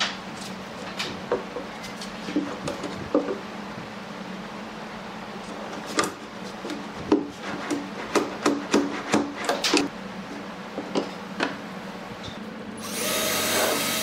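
Hand work on wood: scattered knocks and taps, with a quick run of them about two-thirds of the way through, over a steady low hum. Near the end a power tool runs briefly, for about a second.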